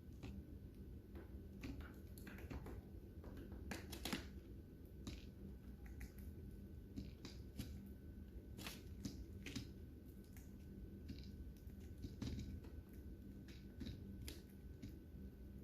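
Lovebirds eating seed: faint, irregular clicks and crunches of beaks cracking husks.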